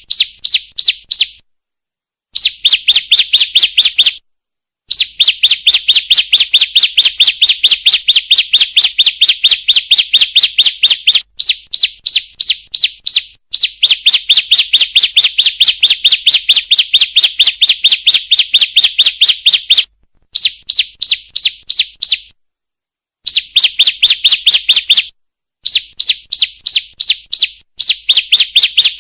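Female bar-winged prinia (ciblek) calling: fast runs of sharp, high chirps, several a second, broken by short pauses. It is a lure call used to draw in males.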